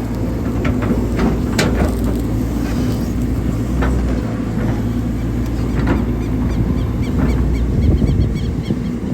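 Hydraulic excavator's diesel engine running steadily under load while digging, with several knocks and scrapes from the bucket and arm working the soil.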